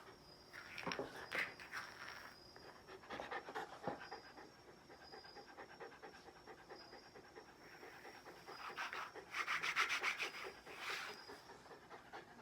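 Shiba Inu panting and moving close by, with soft rubbing and rustling sounds, which thicken into a quick run of rustling about nine seconds in.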